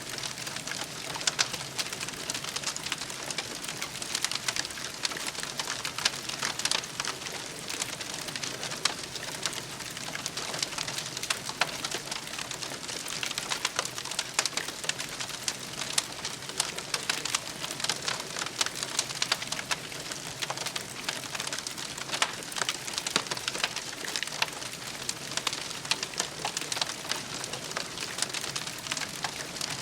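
Campfire crackling and popping steadily, dense irregular snaps from burning wood, with a bird cooing now and then.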